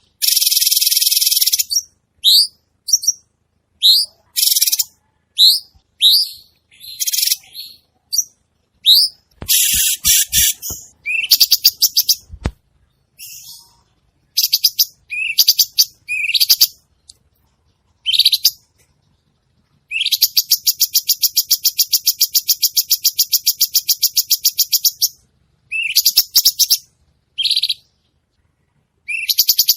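Cucak cungkok songbird singing hard: a run of short, rising whistled notes broken by long, fast, rattling buzzy trills, the longest lasting about five seconds near the middle of the later half. A few soft knocks come in the middle.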